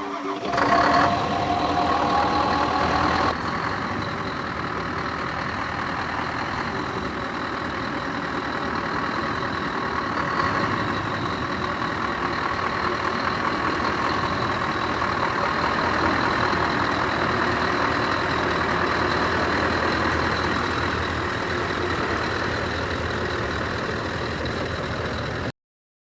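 Scania R500 truck's V8 diesel engine starting, running faster for the first few seconds, then settling to a steady idle about three seconds in.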